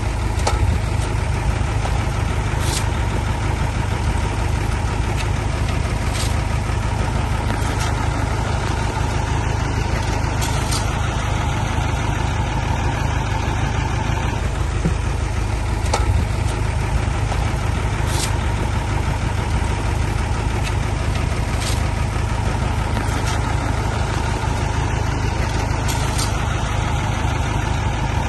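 Heavy diesel engine running steadily at a low idle, with faint short ticks every few seconds.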